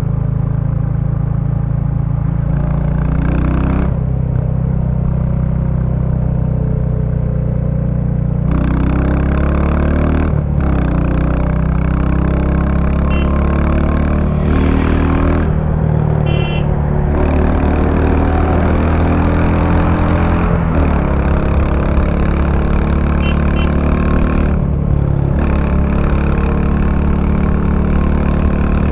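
Royal Enfield Bullet 350's single-cylinder 349 cc engine running through the stock exhaust while riding. The engine note changes pitch and briefly drops off several times, around 4, 8, 10, 14, 16, 20 and 25 seconds, as the throttle is closed and reopened.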